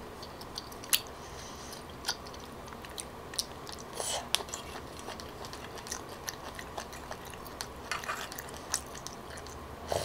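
Close-miked chewing of soft tteokbokki rice cakes, with scattered small wet mouth clicks. Near the end a metal spoon scoops broth and it is sipped from the spoon.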